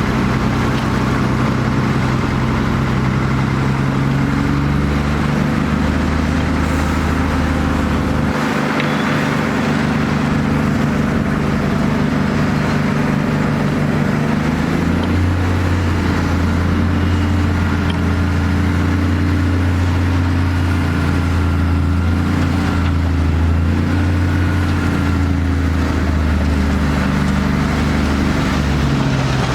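Heavy earthmoving-machine diesel engine running steadily under work. Its note changes about eight seconds in and again about fifteen seconds in.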